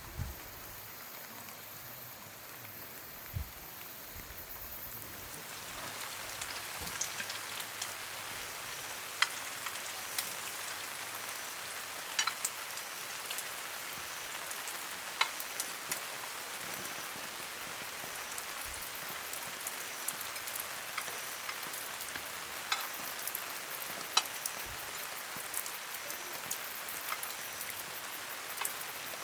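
Rain falling steadily, with individual drops ticking sharply on a nearby surface. The rain grows heavier about five seconds in.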